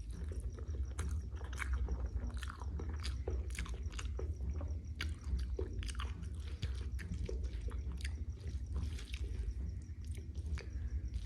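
A person eating at close range: wet chewing and lip-smacking on a mouthful of jackfruit curry with rice, with irregular clicks and smacks several times a second over a steady low hum.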